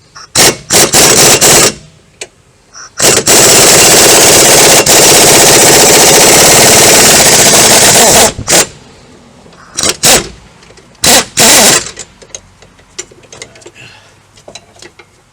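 Pneumatic impact wrench with a straight chrome socket and no extension hammering at a tight strut bolt to break it loose. It gives a few short bursts, then one long burst of about five seconds, then a few more short bursts.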